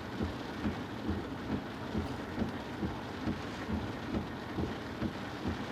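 Heavy rain pattering on a car roof: an even hiss with many irregular drop hits.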